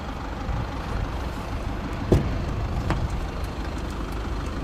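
Steady low rumble with a sharp latch click about two seconds in and a lighter click just under a second later: a Toyota Land Cruiser Prado's door being opened.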